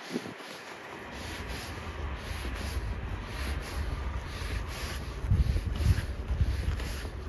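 Footsteps crunching in snow at a walking pace, about two steps a second, with wind buffeting the microphone in gusts, strongest around five to six seconds in.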